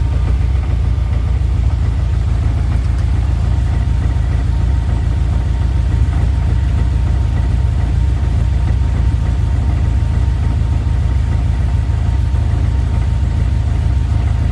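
Engine idling steadily, heard at the exhaust pipe: a deep, even exhaust note with no revving.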